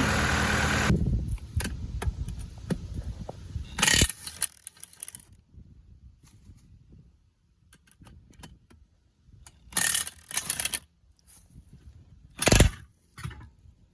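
John Deere 4066R compact tractor's engine running, then shut off about a second in. Scattered metallic clicks and clanks from work on the wheel follow, with a loud knock about four seconds in, two short rattling bursts later on and a sharp bang near the end.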